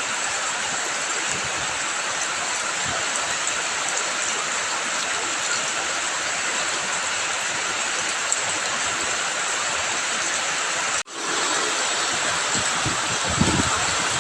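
Steady hiss of rain and running water. It drops out for an instant about eleven seconds in and resumes, with a few low thuds near the end.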